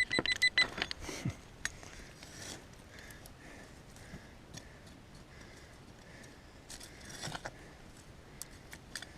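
A metal detector beeping rapidly at the very start, then a hand digger scraping and clicking in the soil while the target is dug out, with faint soft tones repeating in between.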